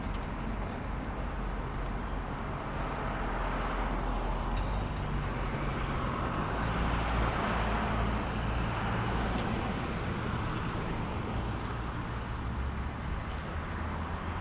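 A motor vehicle engine running with a steady low rumble, its noise swelling to a peak about halfway through and then easing off, as a vehicle passing close by would.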